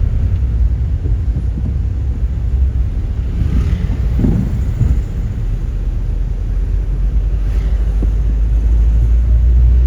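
Steady low rumble of a car on the move: engine and road noise, with a brief swell about four seconds in.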